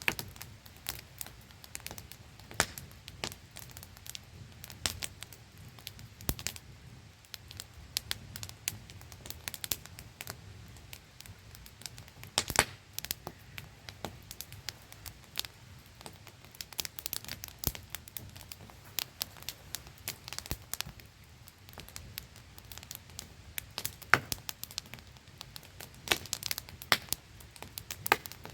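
Wood campfire crackling, with frequent sharp irregular pops over the steady static-like rush of a small waterfall.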